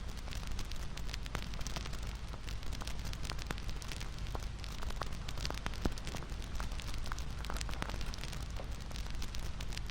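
Wood bonfire crackling: a steady hiss with frequent irregular pops and snaps over a low rumble.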